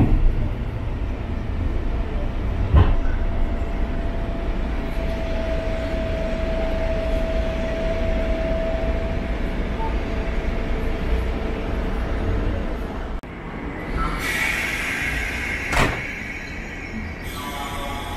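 Electric commuter train heard from inside the carriage as it runs into a station: a steady low rumble, one knock about three seconds in and a steady whine for a few seconds in the middle. After a sudden change about two-thirds through, station platform noise with a hiss, a click and a short repeating tone near the end.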